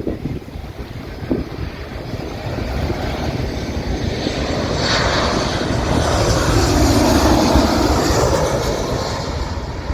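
Airplane on landing approach passing low overhead: its engine noise builds steadily to a peak about seven seconds in and then fades, the pitch dropping as it passes.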